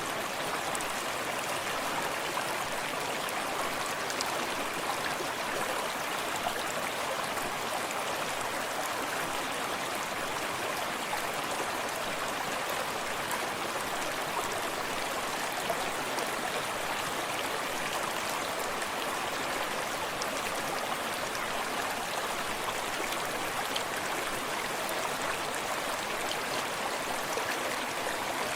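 Small forest stream running steadily over rocks, a constant rushing with small close-up splashes and trickles.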